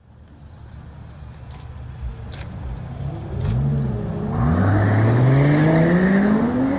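Car engine accelerating: it grows steadily louder, and from about halfway through its pitch climbs smoothly and evenly.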